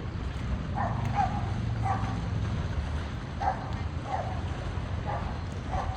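About seven short animal calls at irregular intervals, some in quick pairs, over a steady low rumble.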